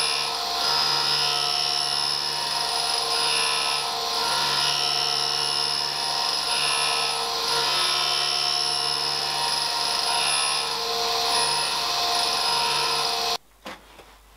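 Clarkson tool and cutter grinder running, its abrasive wheel grinding a tooth of a gear-tooth cutter: a steady whine with a rasping edge that swells and eases every second or two. It cuts off suddenly near the end, followed by a few light clicks.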